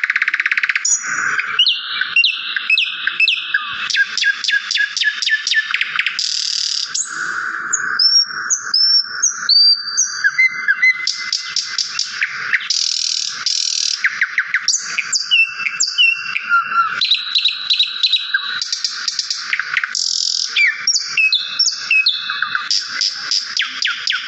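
Small songbirds chirping and trilling nonstop, fast runs of chirps mixed with short whistled notes that slide in pitch.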